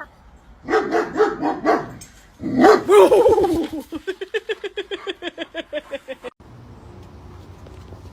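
A dog barking: a few barks about a second in, a longer call around three seconds, then a rapid run of short yips, about eight a second, that grows weaker and cuts off about six seconds in.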